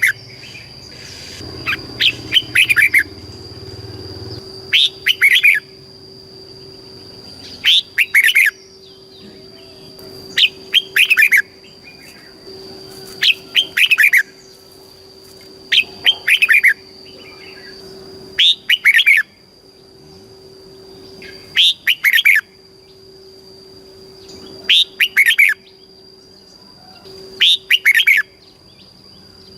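Red-whiskered bulbul singing: a short, bright, chirping phrase about every three seconds, over a faint steady high-pitched tone.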